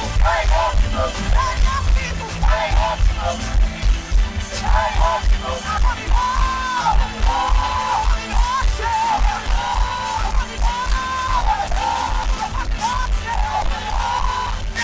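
Live gospel worship music: singing voices over a band with a heavy, steady bass beat.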